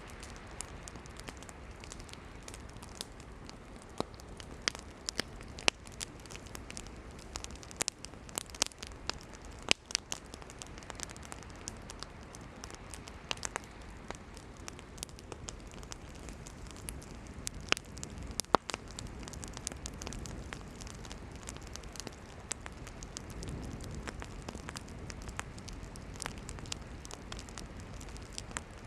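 Wood campfire burning: a steady low hiss and rush of flames with frequent sharp crackles and pops from the burning firewood, at irregular intervals.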